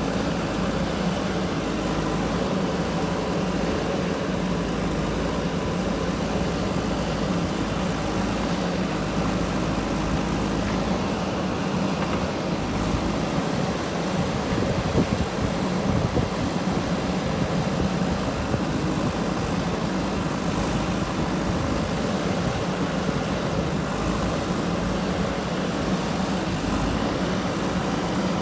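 JCB 3DX backhoe loader's diesel engine running at a steady, even pitch, with no pause or change in revs.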